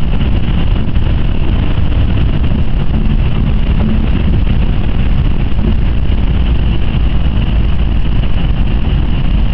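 Cabin noise of a Jaguar XJ's supercharged 5.0 V8 under way on a wet track: a steady engine drone mixed with tyre and road noise.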